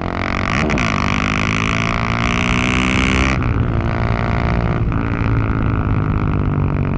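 Husqvarna 701 supermoto's single-cylinder engine and exhaust under way. The revs climb for a couple of seconds, drop sharply about halfway through, then build again.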